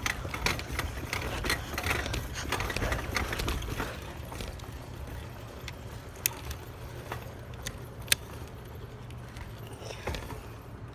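Bicycle and handlebar phone holder rattling and clicking while riding, the rattling busiest for the first few seconds and then thinning to a few sharp clicks, over a low rumble.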